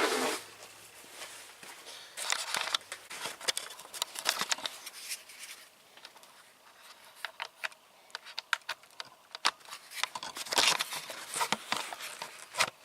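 Tools and kit cases being handled and moved about: scattered clicks, knocks and rustling, with a louder cluster about ten seconds in.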